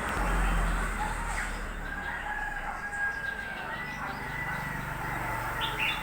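A rooster crowing in long, drawn-out, nearly level notes, with a few short, high bird notes near the end. A low rumble fills the first second.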